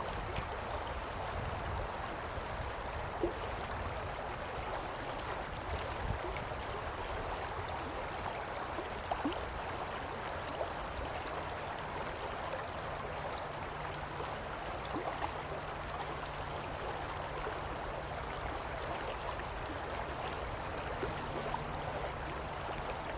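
Fast-flowing shallow stream running steadily over rocks, an even rushing and babbling of water.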